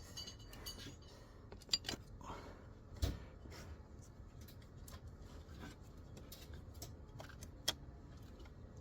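Scattered light clicks and taps of tools and metal parts being handled, with sharper knocks about three seconds in and near the end.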